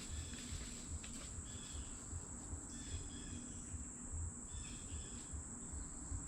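Insects trilling steadily at a high pitch, with a few faint short chirps above the low, uneven bumping of handling or wind on the microphone.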